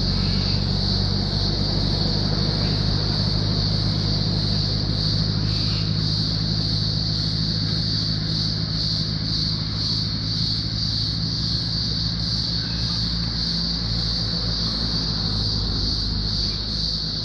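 A car engine runs steadily over the constant loud drone of cicadas.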